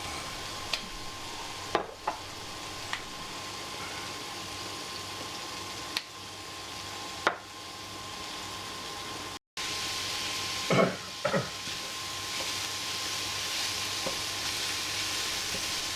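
Meat frying in a pan with a steady sizzle, and a few sharp taps and scrapes of a utensil against the pan. After a brief dropout about halfway through, the sizzle is louder.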